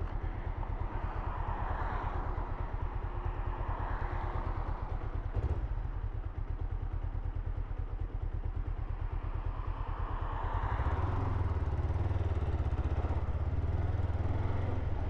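Kawasaki GPZ 500's parallel-twin engine running steadily, with a haze of wind noise above it. About eleven seconds in, the engine note grows stronger and deeper.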